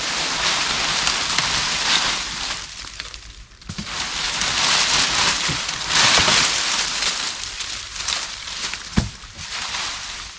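Dry leaves and sticks of a debris shelter rustling and crackling as they are pulled apart by hand, in swells, with a couple of sharp knocks of wood.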